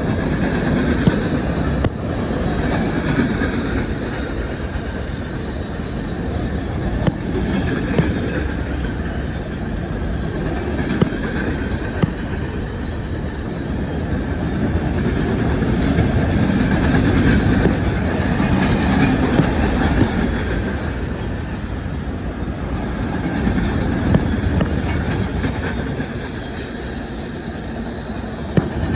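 Train rolling past: a steady rumble of wheels and cars on the rails, with sharp clicks now and then from wheels crossing rail joints and a faint high squeal.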